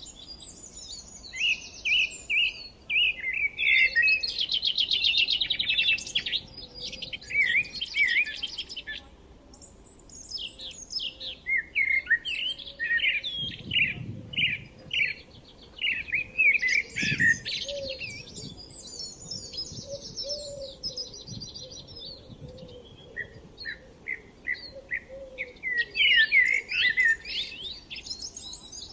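Several songbirds singing together, with overlapping chirps and rapid trills coming in phrases separated by short gaps.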